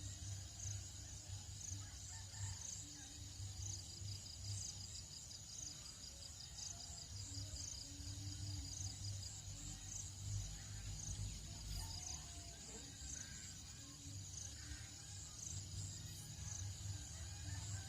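Tropical dawn chorus: insects trilling steadily at a high pitch with rapid pulsing, while roosters crow and birds call faintly in the distance over a low steady hum.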